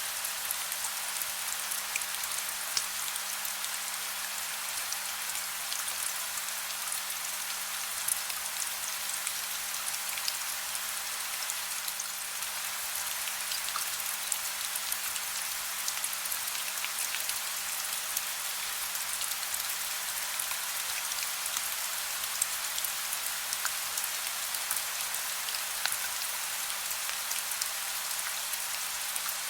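Soft rain falling steadily: an even hiss scattered with the small ticks of individual drops.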